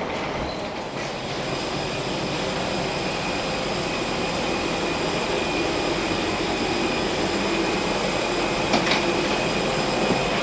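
Steady vehicle-interior rumble with a faint, steady high-pitched whine, and a short click near the end.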